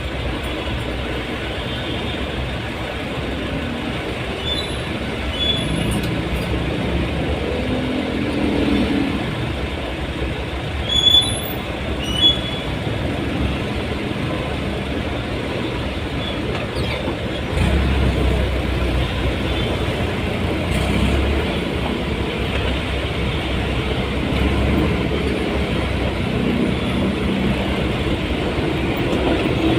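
Steady running rumble of a moving vehicle, heard from on board, with a couple of short high squeals about a third of the way in and a heavier low rumble from a little past halfway.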